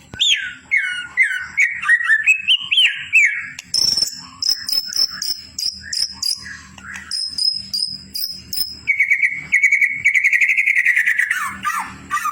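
White-rumped shama singing: whistled phrases that swoop up and down, then a run of short high repeated notes, and from about nine seconds a fast trill that falls in pitch near the end.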